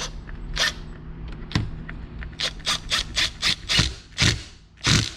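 Hand tool driving in the screw that holds the timing chain guide on a KFX400 engine case, a run of short rasping, squeaky strokes about five a second that grow louder near the end.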